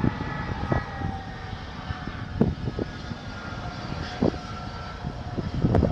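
Jet airliner engines running, a low rumble under several whining tones that slowly glide lower. A few short thumps break through, and the sound grows louder near the end.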